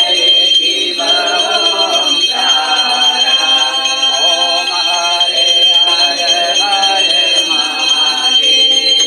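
Voices singing a devotional hymn together in a puja, over a steady high ringing that runs underneath.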